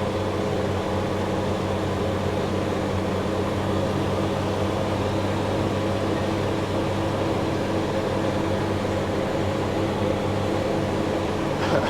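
Cummins diesel engine of a self-propelled crop sprayer running at a steady speed, heard from inside the closed cab as an even, unchanging drone.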